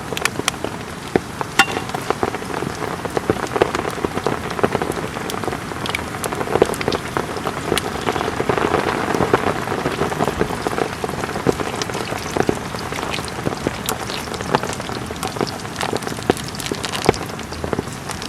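Heavy rain falling steadily on a tent, with many sharp separate drop hits ticking on the fabric over a dense hiss.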